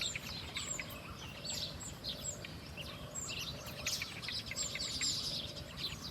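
Small songbirds chirping busily, with many short, high, overlapping chirps and quick falling notes, over a low steady background noise.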